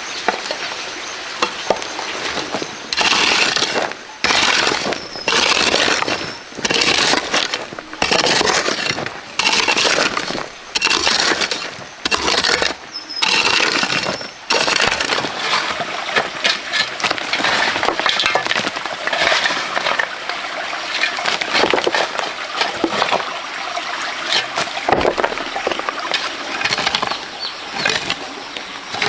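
Gritty scraping and crunching strokes of a hand tool digging into sand and gravel, about one stroke a second, giving way to a steadier crunching.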